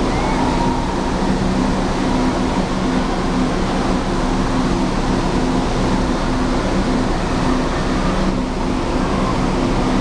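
Steady, loud indoor waterpark din: running water and echoing crowd noise over a constant low mechanical hum.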